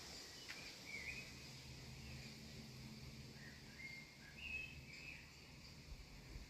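Wild songbirds giving faint short chirps and brief trills, several a second at times, over a steady high hiss and a low steady hum.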